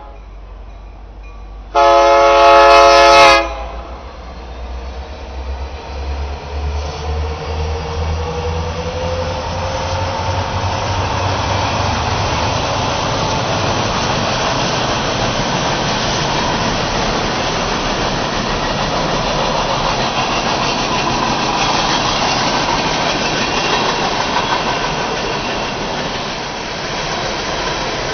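A diesel locomotive air horn sounds one blast about two seconds in, then the rumble of the train and its wheels on the rails builds up over several seconds and runs on steadily.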